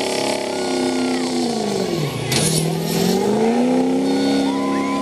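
Ford Excursion's engine under heavy load pulling a weighted sled, revving up. Its pitch dips about two seconds in, then climbs again and holds steady, with a short hiss about two and a half seconds in.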